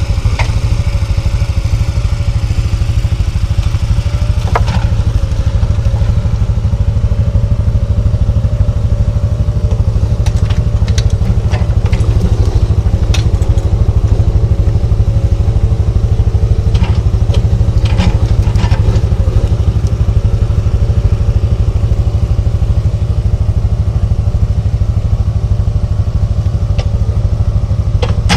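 Utility ATV engine running steadily, with scattered knocks and clatter.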